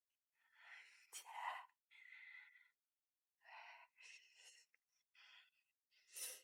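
A person's breathy vocal sounds, a run of about six short gasps and sighs.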